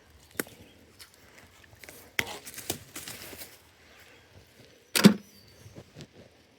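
Work-handling noise: a few sharp clicks and knocks, the loudest about five seconds in, with a short rustling stretch between them.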